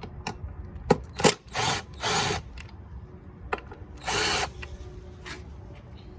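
Cordless power tool run in three short bursts, spinning out the 10 mm bolts of an engine's intake plenum, with a couple of sharp metal clicks just before them.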